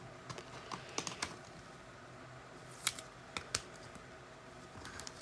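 A few light, scattered clicks and taps, about six spread over several seconds, with faint hiss between them.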